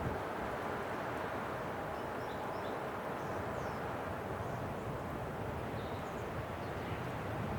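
Winter wind blowing as a steady rushing noise, with a few faint high chirps in the middle.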